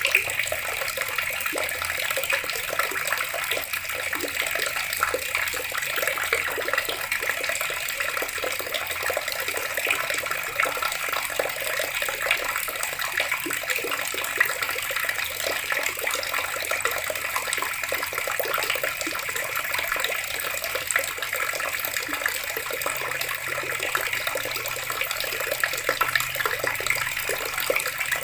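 Water tap running steadily, a continuous stream of water splashing and spattering.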